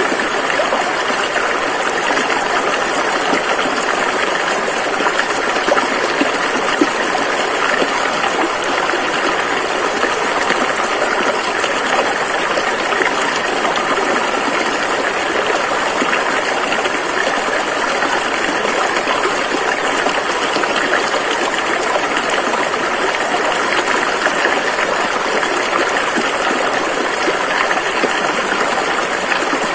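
Fast-flowing river rushing steadily, an even, unbroken water noise with no individual splashes standing out.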